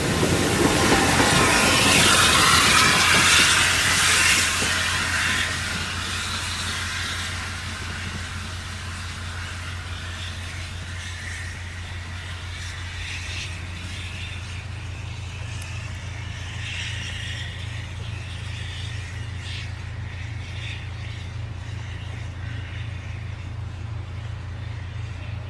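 A train rolling past, its noise dying away over the first five or so seconds, followed by a steady low hum.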